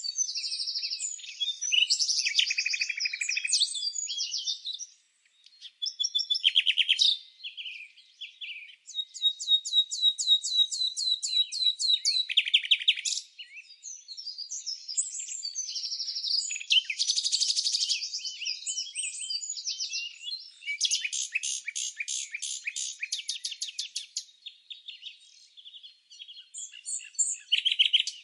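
Songbirds singing: a busy run of high chirps and fast trills of repeated notes, with short lulls about five, eight and twenty-six seconds in.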